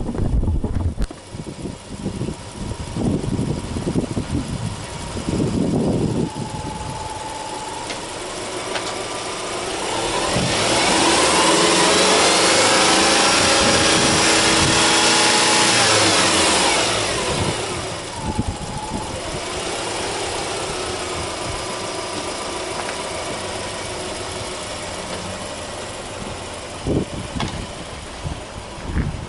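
Subaru Impreza 1.5i-L's 1.5-litre flat-four (boxer) engine running at idle, then revved in neutral in the middle: the pitch climbs, is held for several seconds and falls back to a steady idle.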